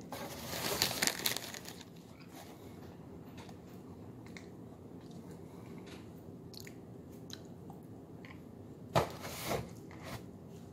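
Crunching bites and chewing of food close to the microphone: a crackly run of crunching in the first second and a half, small clicks of chewing after it, and another crunching bite near the end.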